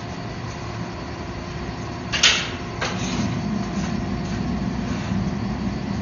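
Steady running of a forging shop's forge and hydraulic press, a constant rushing hum, with a sharp metallic clank about two seconds in and a lighter one just after.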